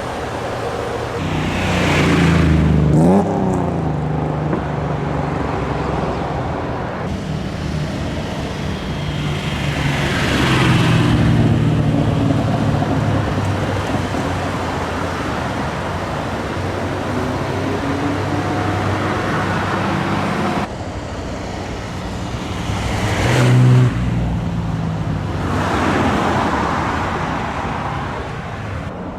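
Engines of old Shōwa-era Japanese cars running and revving as cars move off one after another, the engine note rising several times. The loudest, sharpest rev comes about three-quarters of the way through.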